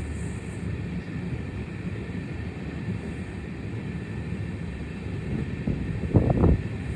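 Steady low rumble and wind noise of a moving train, with a few louder short surges near the end.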